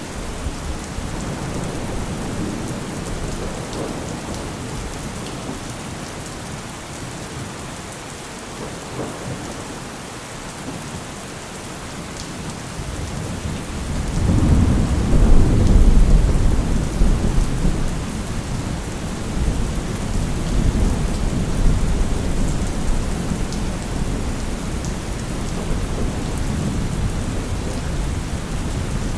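Steady rain falling, with a long roll of thunder that swells about halfway through and rumbles on, fading gradually.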